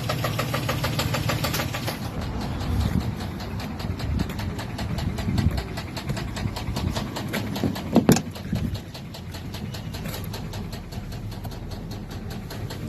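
2008 Chevrolet Silverado Z71's V8 idling with a rapid, even valvetrain ticking, the bad tick the owner is fixing with new lifters, cam and pushrods in a DOD delete. A brief, louder sound stands out about eight seconds in.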